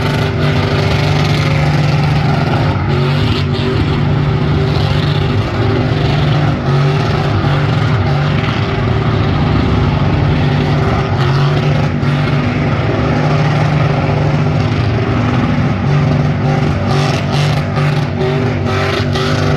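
Truck engine running loud at held, steady revs, its pitch hardly changing, with a rough noisy haze over it.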